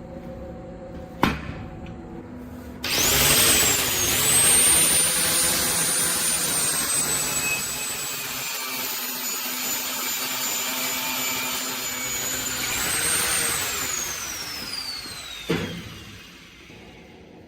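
Electric grinder switched on, its high whine sagging briefly as it bites into the steel and then running on. Near the end it is switched off and winds down, the whine falling in pitch. There is a sharp click shortly before it starts.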